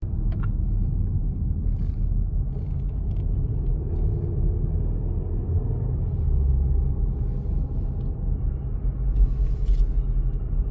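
A car driving along a road: a steady low rumble of engine and tyre noise, with a few faint clicks.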